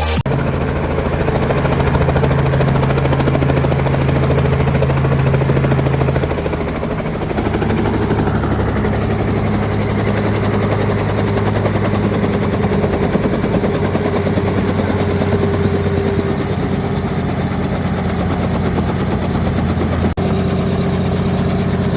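Helicopter running steadily, its rotor and engine giving a continuous low drone with a fast, even beat. The low tones shift about six or seven seconds in, and the sound drops out for an instant about twenty seconds in.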